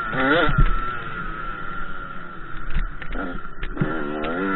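KTM 85 SX two-stroke dirt bike engine revving. The revs rise and fall just after the start, ease off through the middle, and climb again near the end.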